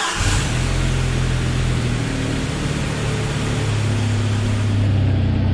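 Freshly rebuilt 2.5 L four-cylinder engine of a 1997 Jeep Wrangler TJ idling steadily just after start-up, like a little sewing machine: smooth and quiet with no knock after its break-in.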